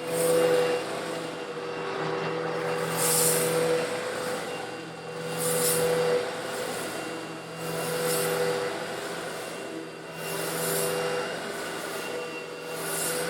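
A Eureka vacuum cleaner runs steadily while sucking up coarse stone granules. Its motor hum swells and eases about every two and a half seconds. A bright gritty hiss of granules rushing up the hose comes with several of the swells.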